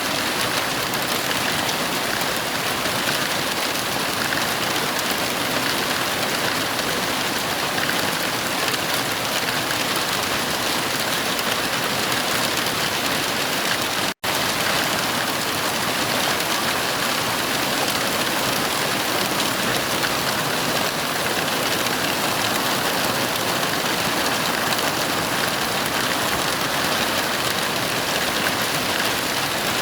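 Heavy rain falling steadily, a dense even hiss with no thunder. About halfway through the sound cuts out to silence for a split second and comes straight back.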